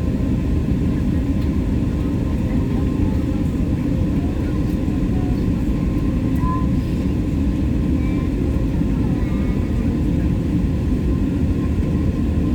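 Steady low rumble inside an airliner cabin from the running jet engines and ventilation before takeoff, with faint voices in the background.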